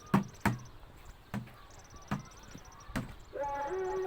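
A series of sharp knocks or strikes, irregularly spaced about half a second to a second apart, over a fast, faint high ticking like insects. Near the end a steady droning tone with overtones starts.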